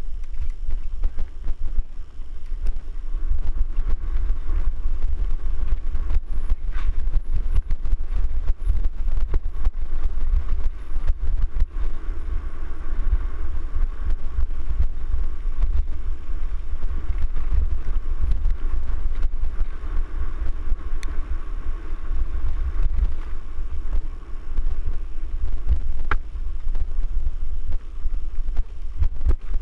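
Wind buffeting the microphone of a camera riding on a moving mountain bike, a steady low rumble throughout. A run of sharp clicks and rattles comes from the bike over rough ground about six to eleven seconds in.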